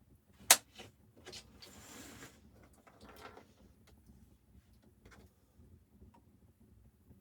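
Objects being handled: one sharp click or knock about half a second in, then lighter knocks and a stretch of rustling, with another faint knock about five seconds in.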